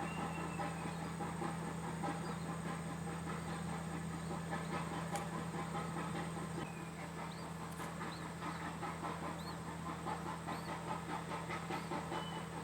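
Small birds chirping in short, scattered high chirps over a steady low hum.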